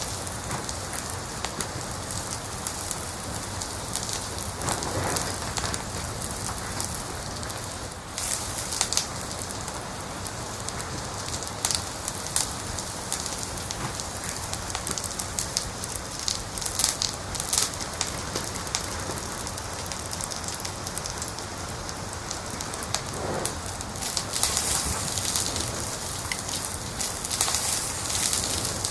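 Wood fire crackling in a fireplace: a steady hiss with frequent sharp pops and snaps throughout.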